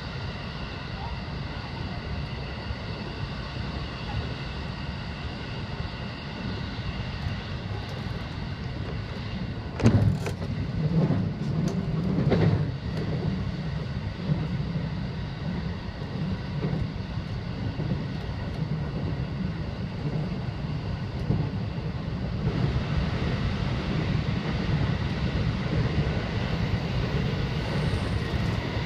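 Local electric train running between stations, heard from behind the driver's cab: a steady rumble of wheels on rail with several steady tones over it. A few sharp knocks come about ten to twelve seconds in, and the sound grows brighter a little after twenty seconds.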